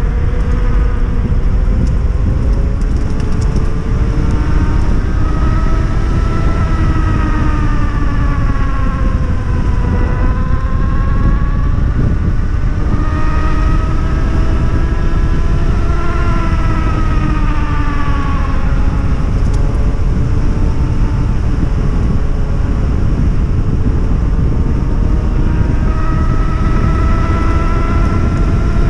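3000 W hub motor of a 72-volt electric enduro bike whining under way, its pitch climbing and sinking several times as the bike speeds up and slows. A steady low rush lies beneath it.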